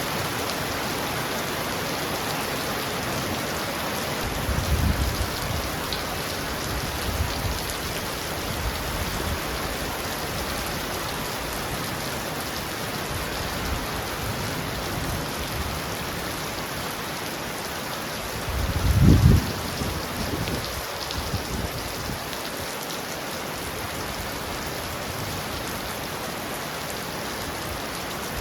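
Heavy rain pounding steadily on a roof, with low rumbles of thunder about five seconds in and a louder one about two-thirds of the way through.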